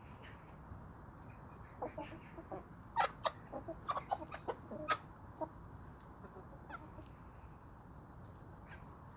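Domestic chickens making a quick run of short, sharp clucks and clicks, starting about two seconds in and lasting about three and a half seconds, with a few scattered ones later, over a steady low background noise.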